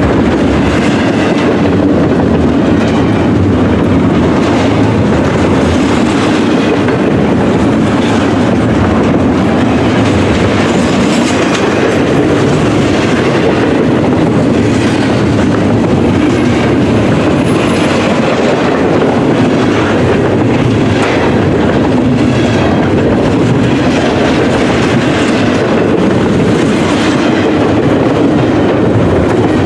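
Freight train of double-stack container well cars and tank containers rolling past, a loud steady rumble with the clatter of its wheels over the rail joints.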